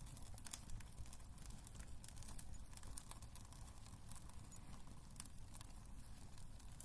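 Wood fire burning in a fireplace, crackling with frequent irregular small pops and snaps over a low steady rush.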